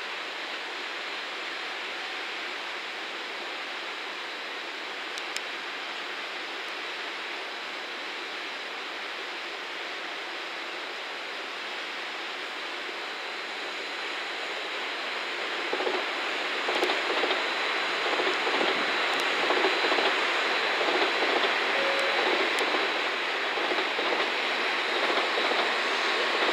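Steady hiss of background rail-yard noise. About halfway through, an N700-series shinkansen rolling along the viaduct grows louder: a rough rushing and rumble of the wheels on the track with a few sharp clicks.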